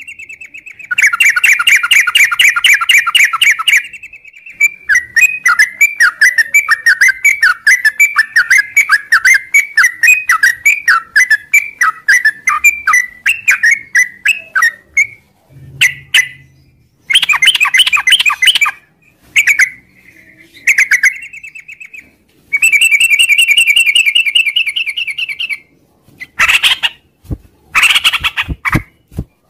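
Yellow-vented bulbul (trucukan) singing a long, rapid chattering song (ngropel): bursts of fast repeated notes broken by short pauses.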